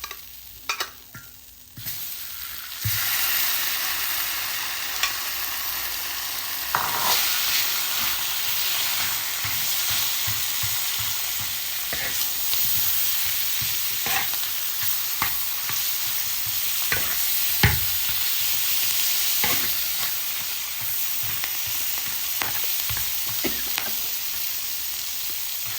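Food frying in hot oil in a wok, sizzling steadily, with a spatula scraping and clicking against the pan. The sizzle comes in about three seconds in, when food meets the oil, and grows louder a few seconds later.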